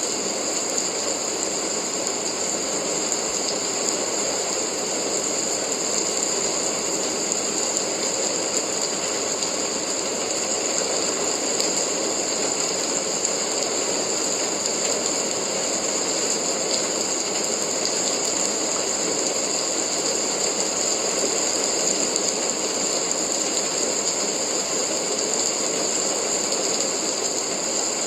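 Steady rain: an even, unbroken hiss of many drops that does not change in strength.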